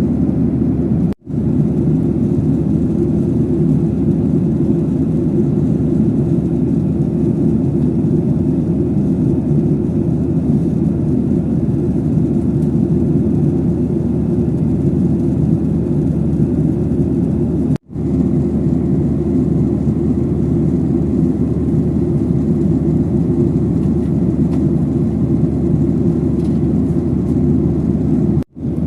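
Steady low drone of an airliner's engines and rushing air heard from inside the passenger cabin during the climb after takeoff. The sound cuts out for an instant three times: about a second in, midway, and near the end.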